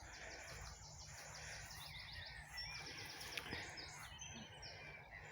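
Songbird singing in fast phrases of rapidly repeated high, downward-sliding notes, with a faint low rumble beneath.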